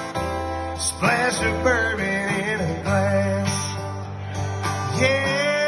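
Country band playing live, with a male voice singing long held, wavering notes over guitars, bass and drums.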